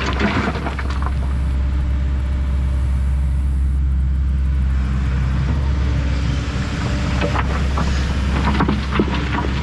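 Kobelco SK210 hydraulic excavator's diesel engine running steadily under work, with a few sharp knocks in the second half.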